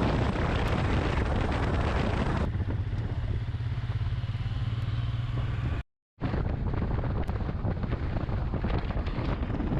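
Royal Enfield Himalayan single-cylinder motorcycle engine running steadily under way, with wind and road noise. It cuts off abruptly for a moment about six seconds in, then resumes.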